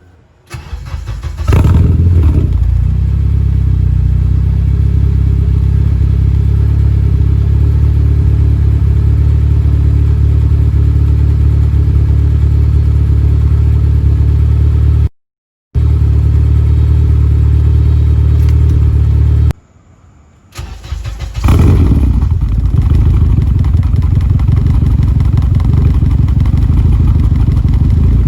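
Honda Accord with a Ktuned 3-inch turn-down exhaust starting up, flaring briefly as it catches, then idling steadily. Near the middle the sound breaks off, and it starts up and flares a second time before settling back to a steady idle.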